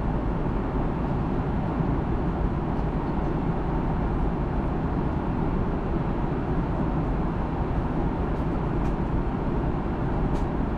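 Steady cabin noise of an Airbus A330-200 airliner in cruise: an even, deep rush of airflow and engine sound.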